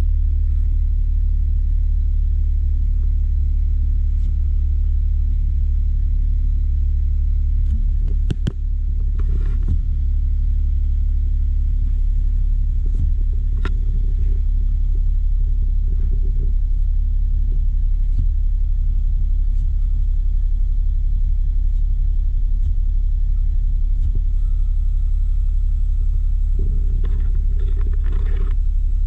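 Suzuki Jimny JB23 running with a steady low rumble, with a single short knock about eight seconds in.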